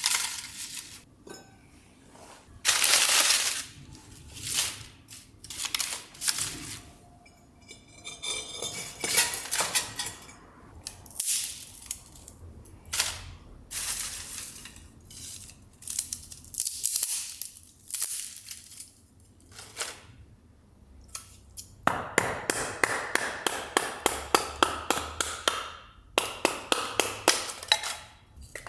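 Hand work at a homemade metal fire stand while starting a fire: scattered sharp snaps, clicks and clinks of wood and metal. Near the end comes a fast run of sharp strikes, about five a second, lasting a few seconds.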